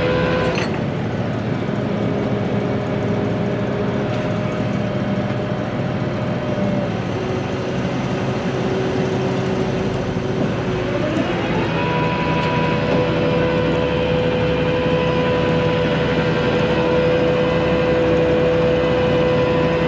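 Heavy truck engine running steadily with a whine, speeding up about eleven seconds in and holding at the higher speed.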